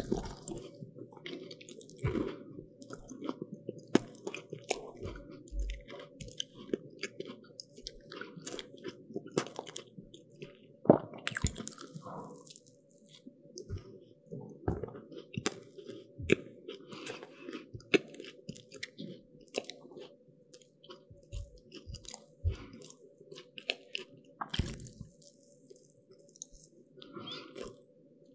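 Close-miked biting and chewing of crisp pastry: a run of crunchy crackles and snaps over steady chewing, with one sharp crunch about eleven seconds in.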